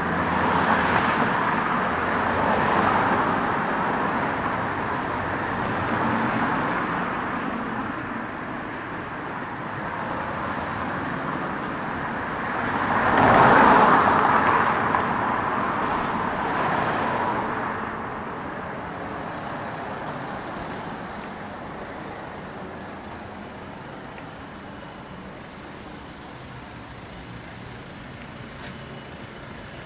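Road traffic: cars passing one after another with a tyre-and-engine hiss that swells and fades, the loudest pass about halfway through, then the traffic grows quieter.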